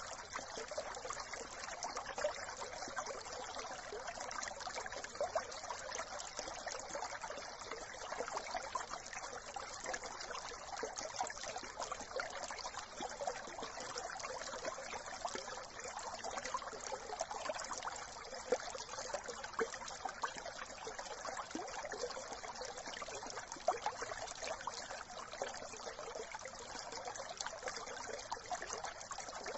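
A brook trickling and babbling steadily, an even rush of running water.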